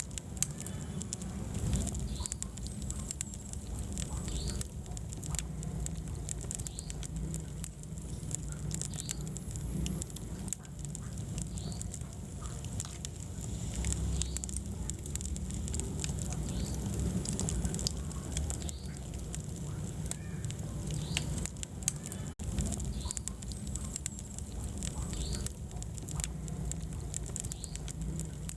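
Wood fire burning in a fireplace: a steady low rumble of flames with frequent small crackles and pops. There is a very brief drop-out about two-thirds of the way through.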